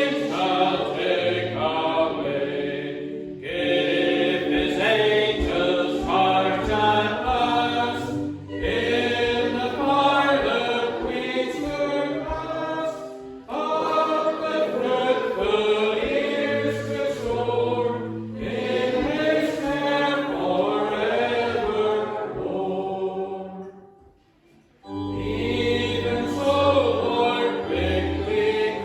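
Church congregation singing a hymn in lines of a few seconds each, over steady low held notes. It pauses briefly between verses near the end, then starts again.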